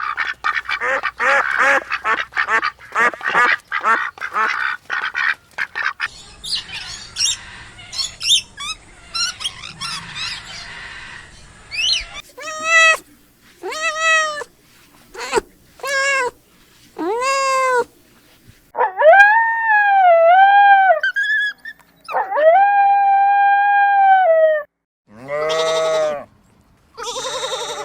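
A string of farm animal calls from one short clip after another. A rush of many quick calls comes first. Then separate calls rise and fall about once a second, and two longer calls are held in the middle. PANN leans towards ducks and geese.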